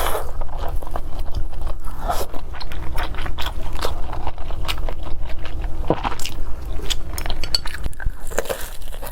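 Close-miked eating sounds: a person biting and chewing food, with irregular crunchy clicks throughout and a couple of stronger bites.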